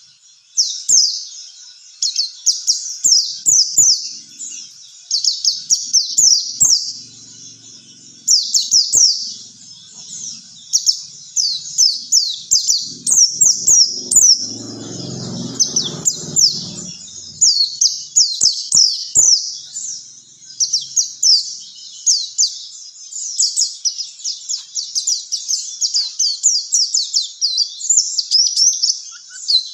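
White-eye (pleci) song: a continuous, fast twittering of high-pitched chirps in quick, loud phrases.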